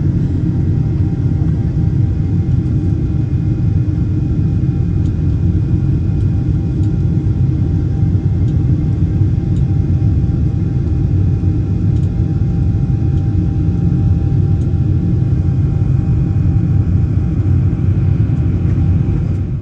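Boeing 747-8's GEnx jet engines and airflow heard inside the upper-deck cabin during takeoff: a steady, loud low rumble with a few faint steady whining tones above it.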